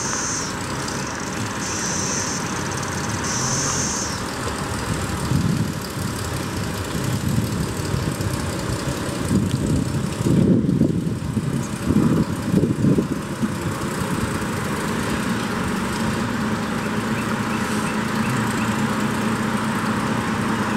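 1929 Graham-Paige Model 615's inline-six engine running as the car drives off and comes along the driveway. It gives a few uneven surges in the middle, then settles into a steady drone that grows toward the end. A high buzz pulses about once a second over the first few seconds.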